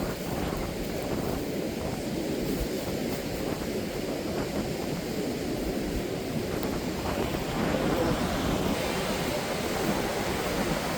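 Steady rush of sea surf on a beach, mixed with wind buffeting the microphone.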